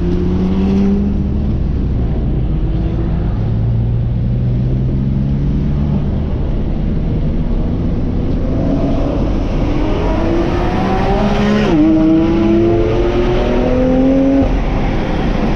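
BMW M2 CS's twin-turbo straight-six heard from inside the cabin, pulling hard on track with its pitch climbing steadily. About twelve seconds in the note drops sharply at an upshift, then climbs again.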